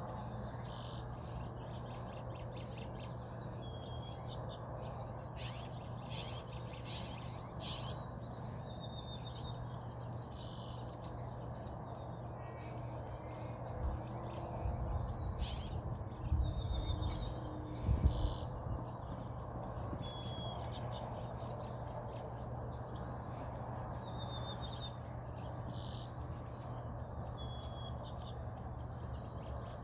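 Small birds chirping repeatedly in short high calls, over a steady low hum and background noise, with a few low thumps a little past the middle.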